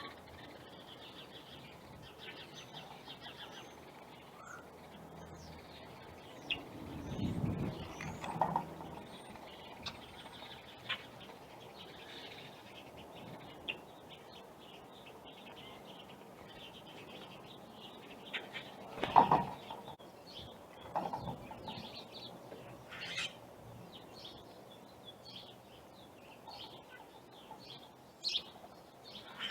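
Small birds chirping in short high calls, with wing flapping and a sharp thump about two-thirds of the way in.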